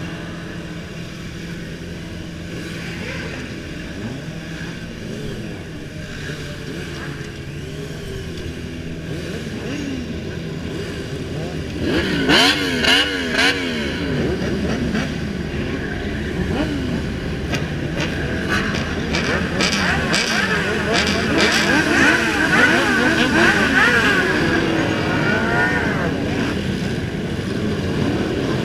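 Several motorcycles revving and riding past, their engine notes rising and falling over one another. A loud, sharp burst of revving comes about twelve seconds in, and the revving grows louder toward the end.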